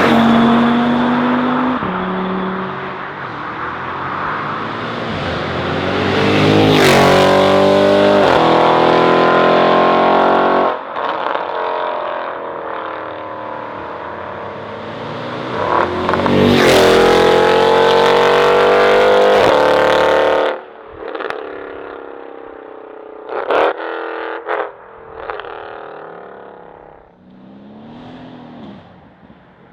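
High-performance car engine accelerating hard past, its note climbing steadily in pitch and then dropping abruptly at a gear change, twice about ten seconds apart. In the last third the engine is fainter and farther off, with short bursts of revving and shifts.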